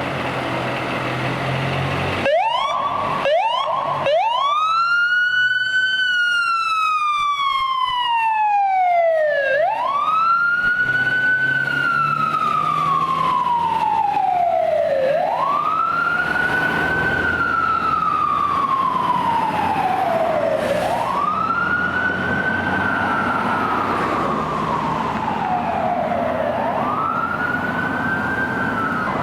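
Fire engine siren starting about two seconds in with a few quick rising whoops, then settling into a wail that rises and slowly falls about every five to six seconds, over a low rumble of road traffic.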